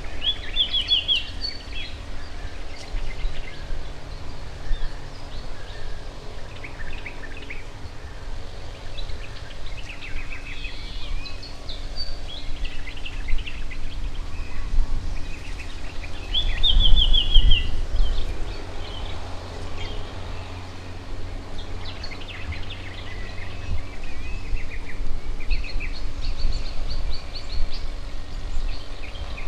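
Wild garden birds chirping, with short runs of quick, high twittering notes repeated every few seconds. A steady low rumble lies underneath and swells for a couple of seconds about halfway through.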